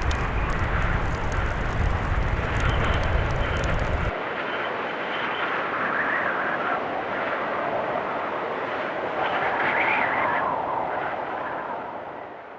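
Blizzard wind blowing in swelling gusts. For the first four seconds a fire crackles under it with a low rumble; both cut off suddenly. The wind then fades out near the end.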